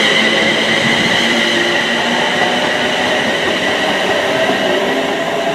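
Passenger train moving along a station platform: a dense rumble of wheels on rail, with a steady high squeal of wheels or brakes at several pitches that slowly fades.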